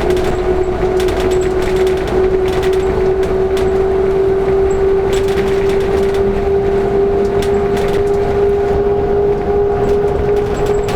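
LiAZ-5292.65 bus under way, heard from inside: a steady drivetrain whine slowly rising in pitch over road rumble, with frequent rattles and clicks from the cabin.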